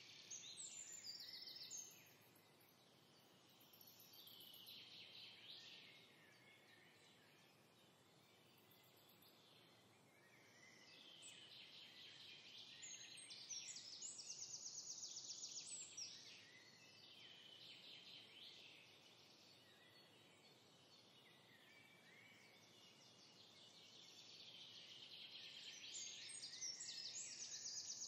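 Faint songbirds chirping and trilling, with several calls overlapping and growing louder at times.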